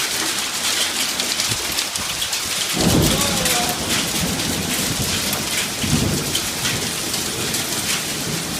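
Hailstones pelting down in a heavy storm, a dense rattle of many small impacts. A low rumble of thunder comes in about three seconds in and again near six seconds.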